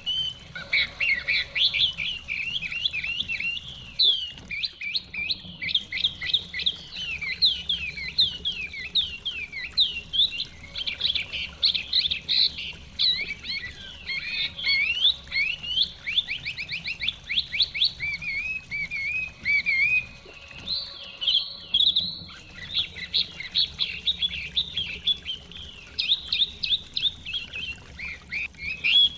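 Chinese hwamei singing a long, varied song of whistled phrases and rapid runs of repeated notes, with brief pauses about four seconds in and again near two-thirds of the way through. A faint low rush of running stream water lies underneath.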